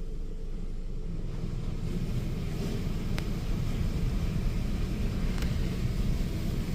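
PDQ AccuTrac 360 touchless car wash spraying water over the car, heard from inside the cabin as a steady low rumble of water on the body, with a faint click about three seconds in.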